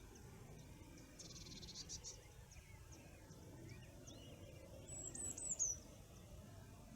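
Wild songbirds singing in the morning: a buzzy trill about a second in, scattered short high chirps, and a louder high phrase that drops in pitch about five seconds in, over a low steady background noise.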